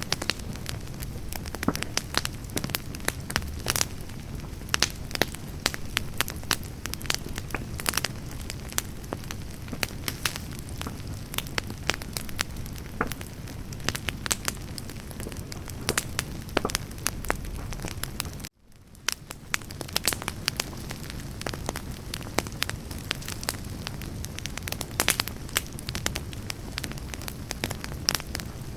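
Wood campfire burning, with constant irregular crackling and sharp pops over a low steady rumble of flame. About two-thirds of the way in, the sound cuts out abruptly and fades back in within about a second.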